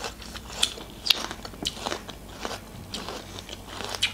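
Close-up crunching and chewing of crisp green alycha (cherry plums) being bitten and chewed, in irregular crunches about two a second.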